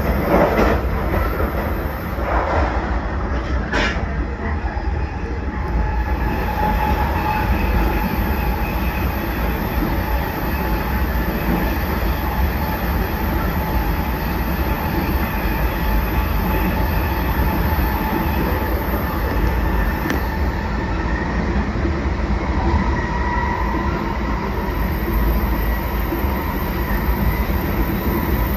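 Limited express train (JR 383 series tilting electric train) running at speed: a steady low rumble of wheels on rail, a few sharp knocks in the first four seconds, and a faint whine that comes and goes.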